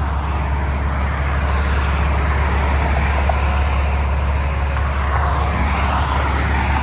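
Steady expressway traffic noise: a continuous low rumble with a wash of tyre and engine noise from passing vehicles, growing slightly louder after about five seconds.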